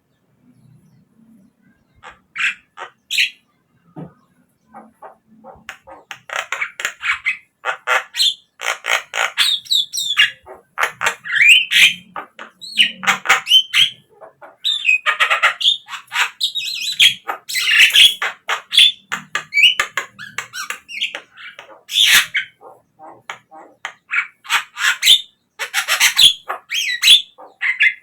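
Javan myna calling: a string of harsh squawks, chatters and rising whistled notes, a few scattered calls at first, then near-continuous from about six seconds in.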